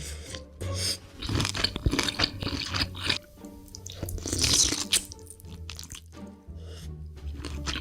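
Close-miked crunching and chewing of crisp food in irregular loud bursts, over steady background music.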